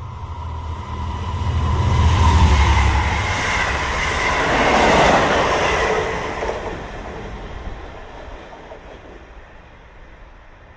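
Long Island Rail Road train passing at speed: a deep rumble swells to its loudest a couple of seconds in, peaks again around five seconds, then fades away as the train recedes.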